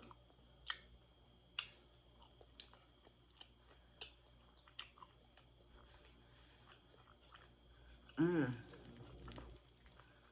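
Close-up chewing of crispy fried parrotfish, with scattered sharp crunches and clicks. About eight seconds in, a short hummed "mm" of approval.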